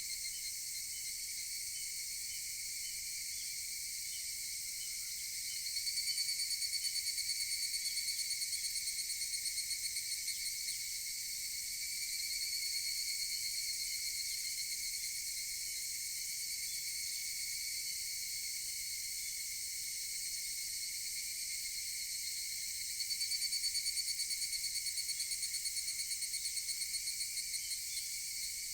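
Higurashi (evening cicadas) calling: a steady high chorus, over which a nearer cicada twice sends out its rapid pulsing 'kana-kana-kana' call, each lasting about five seconds and tapering away, first about six seconds in and again near the end.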